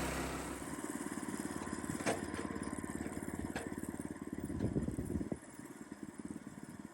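Woodland Mills portable sawmill's gas engine idling with a steady rapid putter. A louder rushing noise fades out in the first half second, and a few light knocks and clicks sound over the idle.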